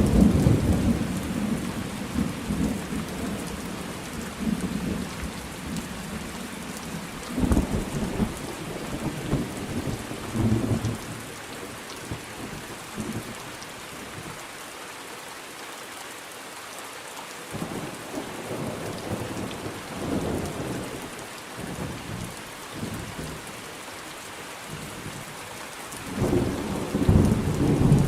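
Thunderstorm: steady rain hissing, with rolling thunder rumbling low at the start, again around seven to eleven seconds in, and swelling loudly near the end.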